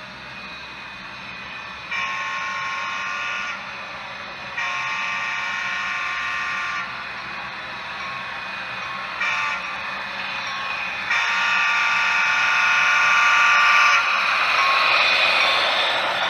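Model diesel locomotive's sound-decoder horn sounding the grade-crossing signal: two long blasts, a short one, then a long one. Near the end a louder rushing noise swells as the horn stops.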